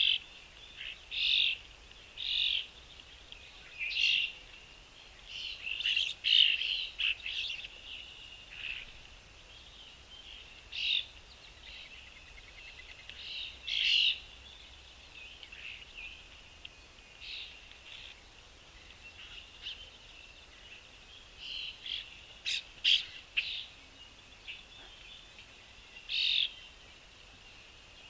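Small birds chirping: short, high calls that come irregularly, some singly and some in quick clusters of several.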